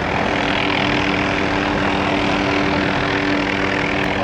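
Helicopter hovering close by, its rotor and engine running steadily: a continuous drone with a steady hum in it.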